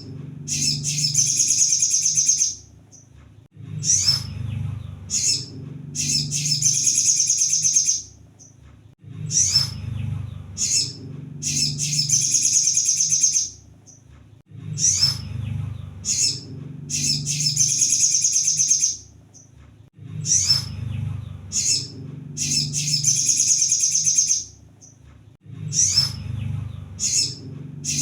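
High-pitched sunbird song: a few sharp chirps, then a dense, rapid trill lasting about a second and a half. The phrase repeats like a loop about every five and a half seconds.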